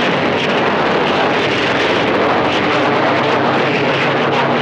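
CB radio receiver hissing loud, steady static on an open channel, with a few faint steady hum tones underneath; rough band conditions for long-distance skip.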